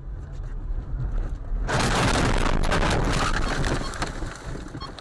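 Vehicle collision picked up by a dash camera: a steady low road-and-engine rumble, then, a little under two seconds in, a sudden loud crash full of sharp cracks and clatter that lasts about two seconds and then fades.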